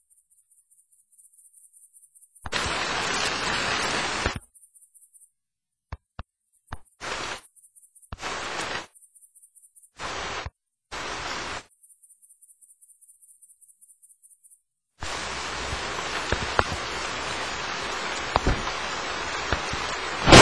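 Rain noise switching on and off abruptly in short bursts, with near-silent gaps between, then running steadily for the last few seconds.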